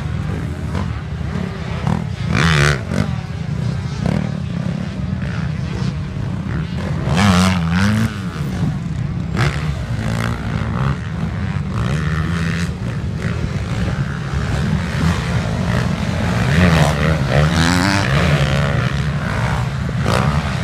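Motocross motorcycle engines running and revving, rising and falling in pitch several times as bikes accelerate and pass, over a constant low rumble.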